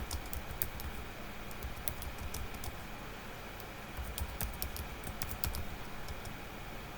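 Typing on a computer keyboard in several short runs of key clicks, with a pause of about a second near the middle.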